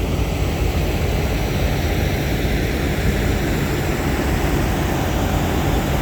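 Steady low rumble of vehicle engine noise, continuous and unchanging.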